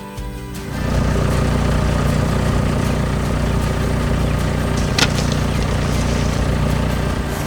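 Truck engine running steadily, with a brief drop in level just after the start and a single sharp click about five seconds in.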